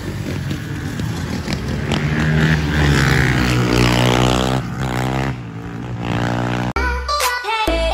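Dirt bike and ATV engines revving as they ride past, the engine pitch dropping as one passes by. Music starts near the end.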